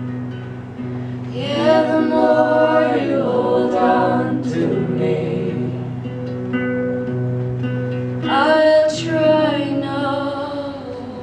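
Live folk song: a woman singing two long phrases, the first about a second and a half in and the second about eight seconds in, over acoustic guitar chords held and changing every second or so.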